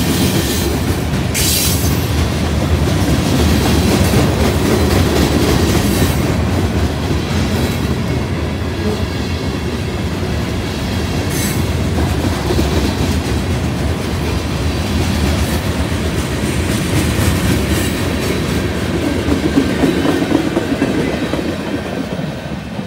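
Freight cars of a CN train (covered hoppers and tank cars) rolling past at close range: a steady rumble of steel wheels on rail with clickety-clack over the joints. Two brief sharp high-pitched noises cut through, about a second in and again around eleven seconds.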